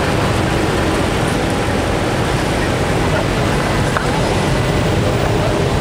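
Steady low rumble of car engines running in a lot full of parked cars, with faint voices in the background.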